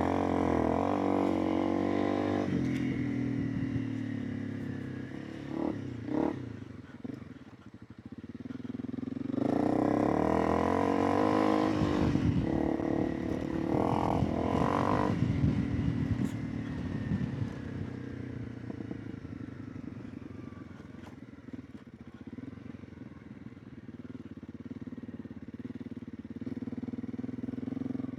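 Honda CRF300 Rally's single-cylinder four-stroke engine running on a ride, its note rising and falling with the throttle. It drops lowest about eight seconds in, then revs up and is loudest for a stretch from about ten to fifteen seconds before easing off.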